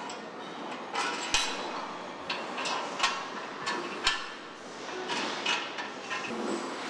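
Irregular sharp metal knocks and clanks of tools and parts on a truck assembly line, about a dozen over a few seconds, over the steady background noise of the plant.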